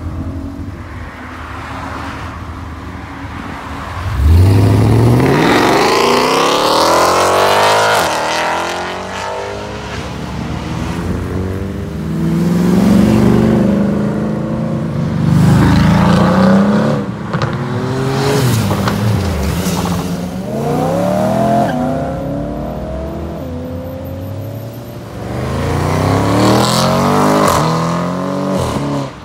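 Several V8 performance cars accelerating hard one after another: a Mercedes C63 AMG estate's V8 launching about four seconds in and revving up through the gears, then a C63 AMG coupé and finally an Audi RS6 Avant doing the same. Each pull climbs in pitch and drops back at every upshift.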